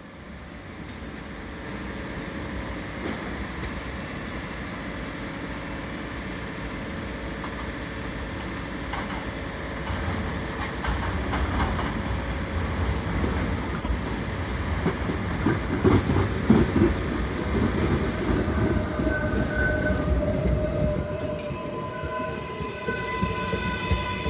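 New York City subway L train rolling into the station, the rumble building with wheels clattering over the rails and loudest about two-thirds in. In the last few seconds a steady whine of several tones comes in from the train's electric motors as it slows.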